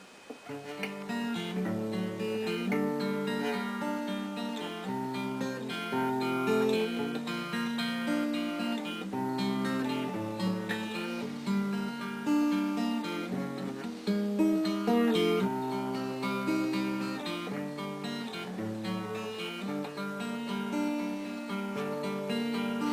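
Instrumental introduction of a song, led by acoustic guitar over a bass line, starting about half a second in.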